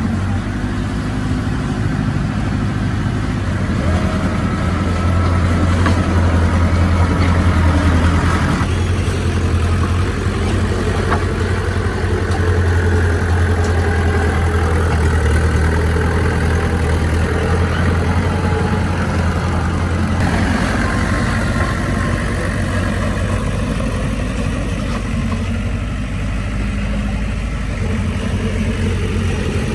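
Heavy diesel engine of earthmoving machinery running steadily with a deep hum, its pitch and load shifting about nine seconds in and again about twenty seconds in.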